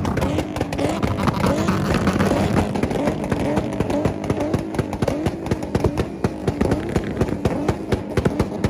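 A tuned car engine held on a two-step launch limiter, firing a rapid string of sharp pops and bangs. The revs rise and cut back over and over, about every two-thirds of a second.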